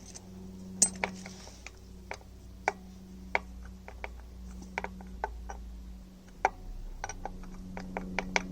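Irregular sharp metallic clicks and taps of a 14 mm Allen key and spanner working on a seized sump drain plug, over a faint steady low hum. The owner takes the plug's hex socket to be worn or tired, so the key will not turn it.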